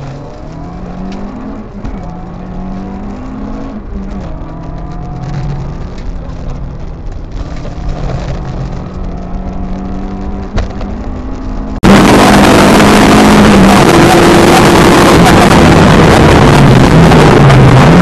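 Four-cylinder engine of an Opel Kadett C GTE Group 2 rally car heard from inside the cockpit, revving up and down through gear changes at racing pace. About twelve seconds in, the sound cuts abruptly to a much louder recording of the engine at high revs.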